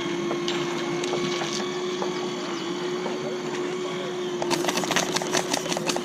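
A small electric motor whining at a steady pitch. About four and a half seconds in, a rapid, irregular run of sharp clicks starts over it.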